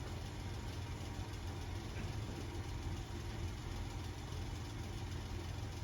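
A steady low mechanical hum, like a motor running continuously, with no change in pitch or level.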